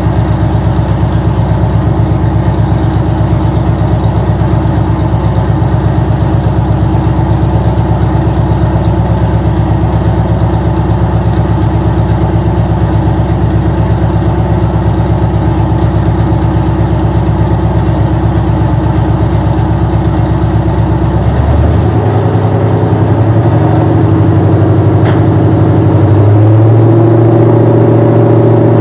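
A 2002 Camaro SS's LS1 V8 running loud through open headers, idling with a steady pulsing beat. About three-quarters of the way through the engine speed rises and holds higher, then steps up once more a few seconds later.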